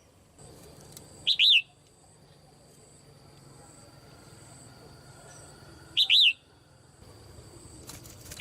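Caged female red-whiskered bulbul calling: two short calls about five seconds apart, each a quick pair of up-and-down notes.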